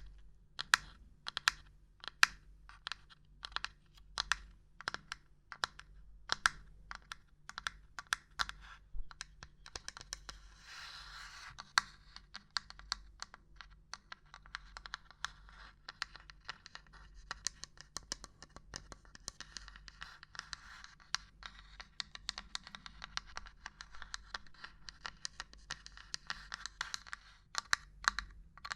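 Irregular tapping and knocking on assorted small objects, quick sharp taps in uneven rhythm. About ten seconds in, a scratching, rubbing sound joins, and it carries on softly under the taps until near the end.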